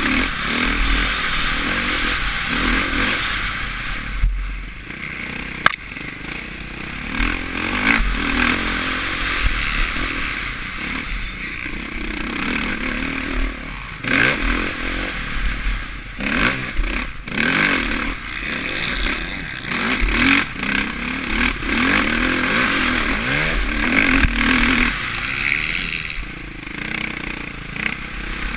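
Suzuki RM-Z450 four-stroke single-cylinder motocross engine heard from a helmet camera, its revs rising and falling over and over as it is ridden hard, with a few sharp knocks early on.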